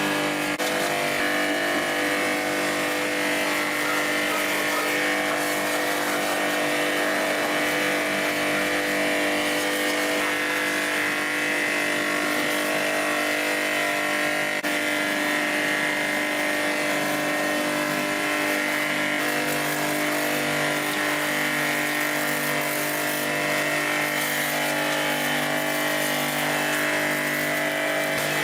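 A machine running steadily with a constant, unchanging pitch.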